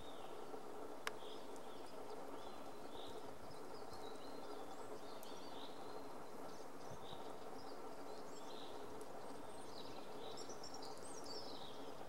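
Small birds chirping faintly with short high calls every second or so, busier near the end, over a steady background hiss. A single sharp tick about a second in.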